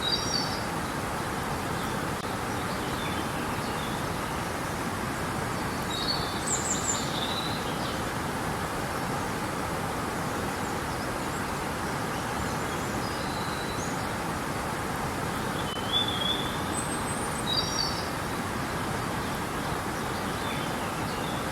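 River water rushing steadily, with a songbird's short, high chirping phrases over it several times.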